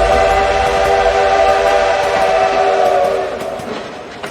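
Train whistle sound effect blowing one long, steady chord of several notes, dying away about three seconds in.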